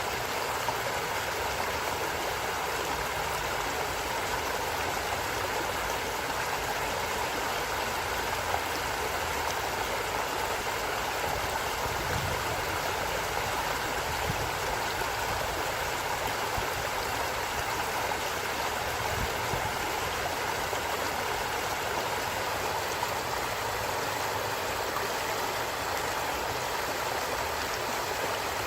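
A forest stream running steadily, an even rush and babble of flowing water without a break.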